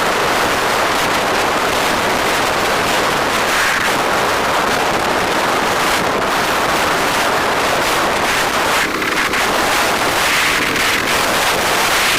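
Steady rush of wind on the microphone of a moving bike, mixed with road and traffic noise.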